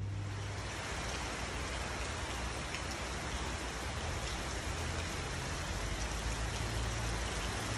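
Steady rain falling on floodwater and the yard around it, a constant even hiss.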